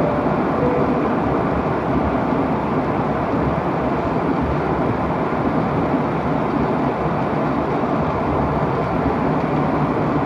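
Steady jet engine and airflow noise heard inside an airliner's passenger cabin.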